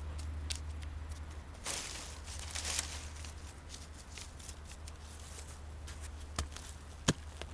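Rustling and scraping in forest-floor leaf litter and soil, loudest in two short stretches about two and nearly three seconds in, with a couple of sharp clicks near the end over a steady low hum.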